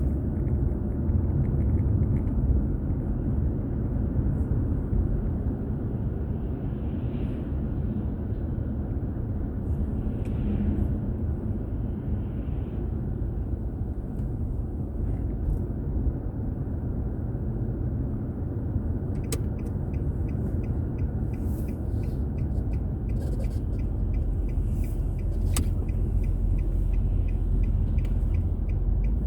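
Car driving on a city road, heard from inside the cabin: a steady low rumble of engine and tyre noise. In the last third a faint, evenly spaced ticking joins in.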